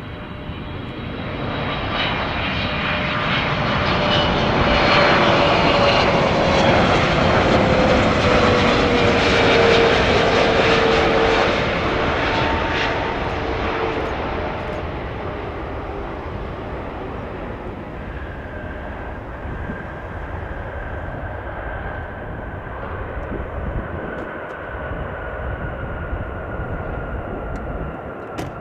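Jet airliner passing by, its engine noise swelling to a peak and then fading, with a whine that drops in pitch as it goes past. A steadier high whine comes in about two-thirds of the way through as the noise dies away.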